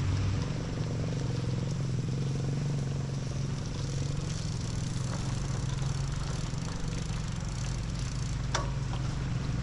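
Motorcycle engine running steadily while riding along a muddy trail, with a sharp click near the end.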